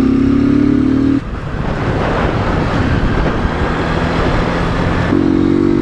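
Motorcycle engine held at high revs with a steady drone. It drops off about a second in, leaving mostly wind and road noise, and revs up again near the end, as the rider goes for a wheelie over a speed bump.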